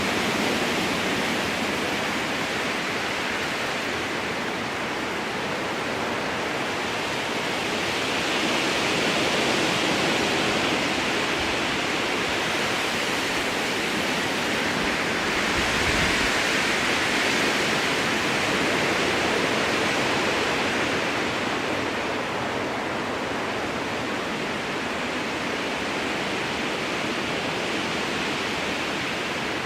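Strong wind blowing through spruce trees, a continuous rushing hiss that swells and eases in slow gusts, loudest around the middle.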